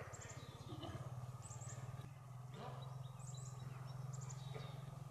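A small bird repeats short runs of high chirps about every second and a half, over a low steady rumble.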